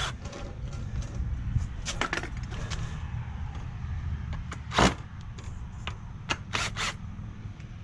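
Scattered knocks and clicks from handling 2x4 lumber and a cordless drill, the loudest nearly five seconds in, over a steady low rumble.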